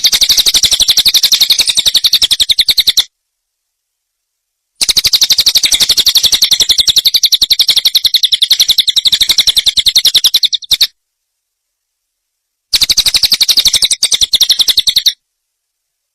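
Small songbird's fast, even chattering trill, a rapid run of sharp ticks, as used in a master recording for tutoring caged songbirds. It comes in three bursts of a few seconds each, with cut-off gaps of dead silence between them.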